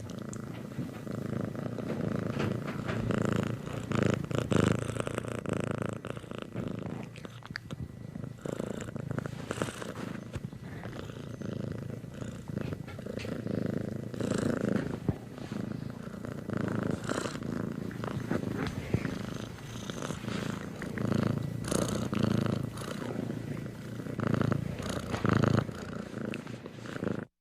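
A domestic cat purring continuously, the purr rising and falling in loudness.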